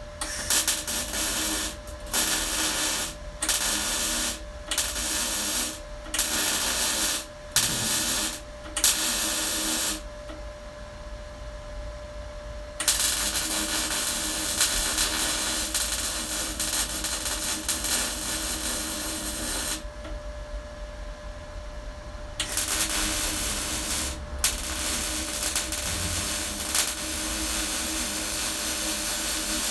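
MIG welder arc crackling in bursts that start and stop sharply with the trigger: a run of short bursts about a second each, then two longer beads of several seconds.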